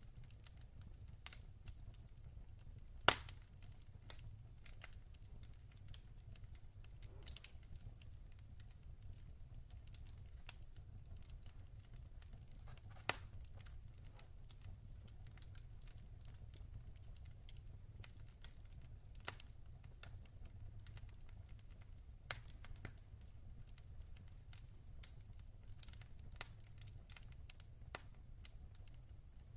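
Log fire burning in a fireplace, crackling and popping irregularly over a low steady rumble, with a sharp pop about three seconds in and another near the middle.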